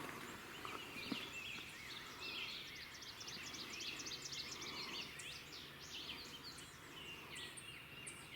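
Faint dawn chorus of wild birds: many short, quick chirps and whistles overlapping throughout.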